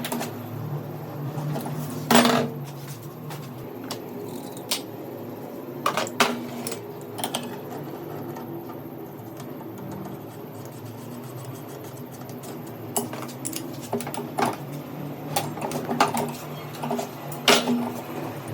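Metal hand tools and parts clinking and knocking at irregular intervals during work on a truck's diesel fuel injection pump, over a steady low hum.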